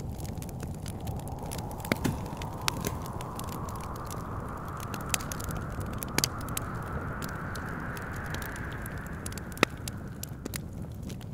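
Wood fire crackling with scattered sharp pops, the loudest near the end, over a steady low rumble of wind. A thin wind whistle slowly rises in pitch and fades out near the end.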